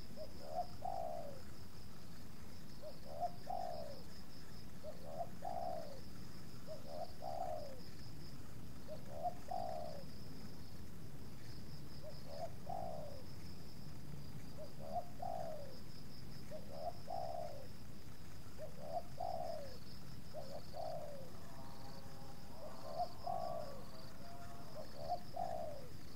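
Spotted dove (tekukur) cooing, a short coo phrase repeated about every two seconds, about a dozen times. A steady high-pitched trill runs underneath.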